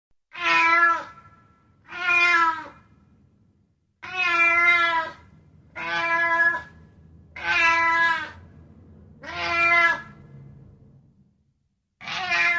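Domestic cat meowing repeatedly: seven short meows about two seconds apart, with a slightly longer pause before the last.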